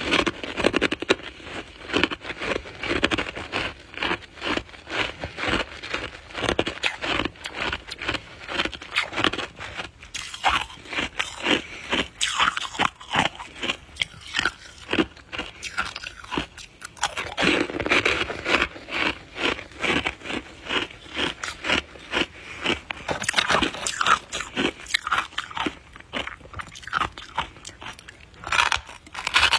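Close-up biting and chewing of soft white shaved ice: dense, rapid crunching, with short pauses about ten and seventeen seconds in.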